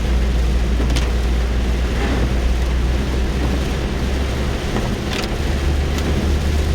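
Rain on a car's roof and windows heard from inside the cabin, a steady wash over a constant low rumble, with a few sharp ticks of drops.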